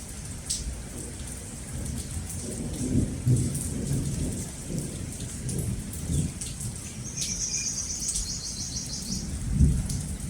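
Steady rain with drops pattering, under low rolling thunder that swells about three seconds in and again near the end. A bird gives a rapid, high trill of repeated notes for about two seconds in the second half.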